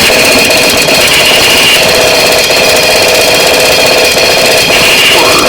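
Harsh noise music: a loud, unbroken wall of distorted noise with steady droning tones running through it and a tone that rises near the end.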